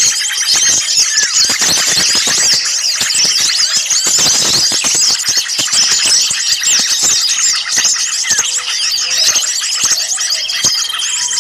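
Dense chorus of many small birds chirping and calling excitedly over one another: a noisy mixed-species bird-lure recording. A thin steady whistle sounds briefly just at the start and again near the end.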